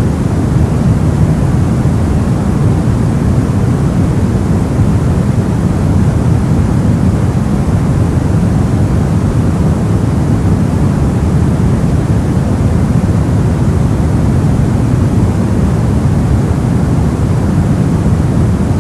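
Soft white noise for sleep: a steady, even rush without pitch or rhythm, weighted toward the low end so it sounds deep and muffled rather than hissy.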